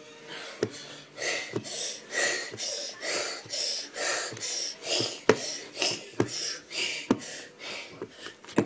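Screw-on lid of a plastic milkshake cup being twisted tight: short plastic scraping strokes about twice a second, with sharp clicks in between.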